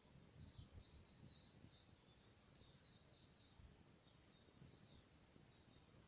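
A bird singing faintly: a long, quick run of high, down-slurred notes, over a low background rumble.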